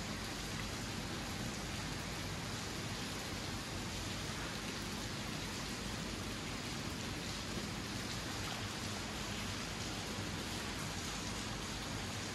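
Heavy rain falling steadily on rooftops and streets, an even, unbroken hiss.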